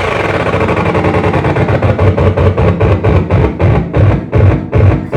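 Loud, distorted electronic noise music played live, a dense wash of noise with a low pulsing beat that grows stronger, settling to about two to three pulses a second by the end.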